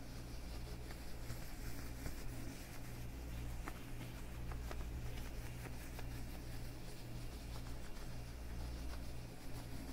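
Leather gloves on the hands rubbing and creaking softly, with a few faint clicks near the middle, over a steady low hum.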